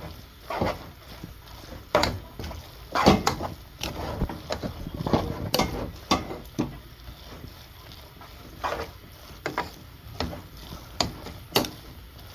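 Spaghetti being turned in a cooking pot: a spoon knocks and scrapes against the pot in irregular strokes, with a few longer scrapes about three and five seconds in.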